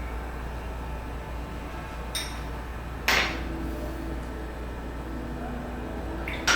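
Glass being knocked down on a hard surface: a light clink, then a louder one about a second later with a brief ringing, and another near the end, over a steady low hum.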